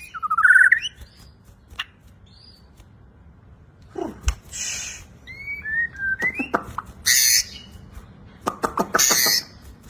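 Murai Borneo (white-crowned shama) singing: a quick trill at the start, then after a pause harsh rasping bursts alternating with short slurred whistles and clicks, the varied song with 'konslet' short-circuit notes that keepers prize.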